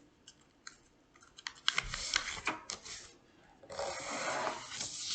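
A sheet of paper being folded: scattered crackles and taps as it is handled, then a longer rubbing sound about two-thirds in as the fold is pressed down into a crease.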